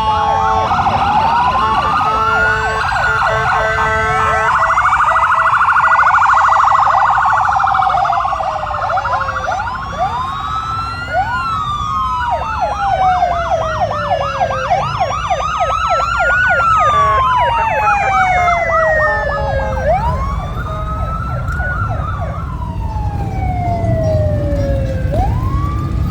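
Several fire-truck sirens sounding at once, overlapping: slow rising-and-falling wails and a fast yelp in the middle, with a steady horn blast over the first few seconds.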